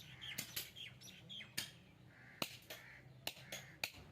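Birds calling in short chirps, mixed with irregular sharp taps or knocks.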